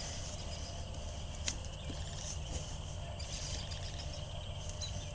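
Outdoor background of insects chirping over a low steady hum, with one sharp click about one and a half seconds in.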